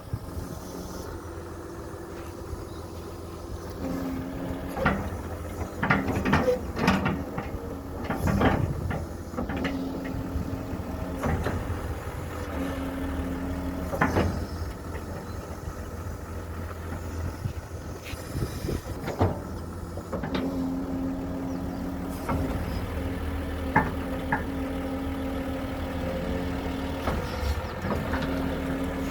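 Excavator's diesel engine running, its note stepping up and down every few seconds as the machine works, with scattered sharp clanks, several of them about five to nine seconds in.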